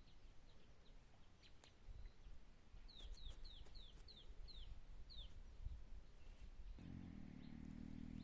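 A bird chirping faintly: a quick run of about seven short, falling chirps a third of a second apart, midway through. Near the end a low, steady hum comes in.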